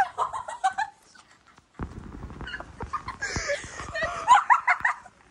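Girls squealing and shrieking in a snowball fight, short high-pitched cries coming thick and fast in the second half.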